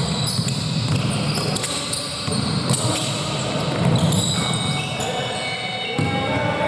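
Basketball game play on an indoor court: the ball bouncing on the floor amid a steady din of footsteps and court noise, with short high squeaks in the second half.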